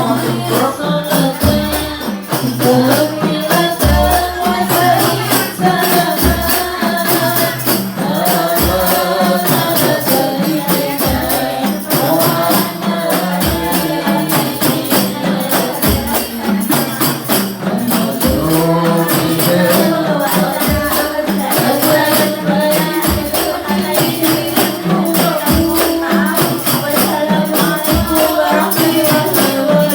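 Hadroh ensemble playing: rebana frame drums with jingling percussion under group singing of a sholawat. A deep bass drum stroke falls about every two and a half seconds.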